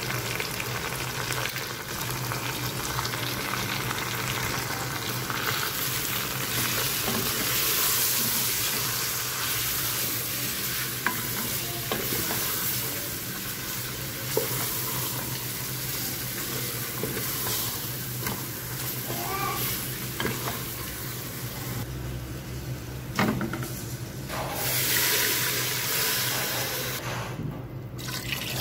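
Chicken pieces and spices sizzling as they fry in an aluminium pressure cooker, stirred with a wooden spoon that knocks against the pot a few times. Right at the end, water starts pouring into the pot.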